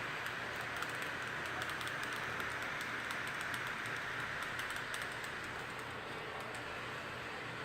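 Razer Blade Pro (2016) laptop cooling fans running with a steady whoosh, the excessive fan noise that a trip to the repair centre did not cure. Quick keyboard clicks sound over it, thick for about the first five seconds, then thinning out.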